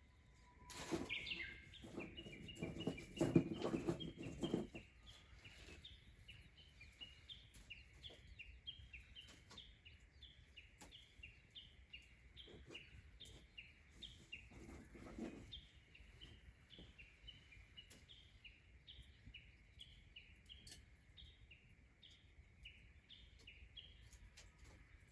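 A bird calling over and over in short chirps, about two a second, over a faint steady high drone. A few louder rustles and knocks come in the first few seconds and again about fifteen seconds in.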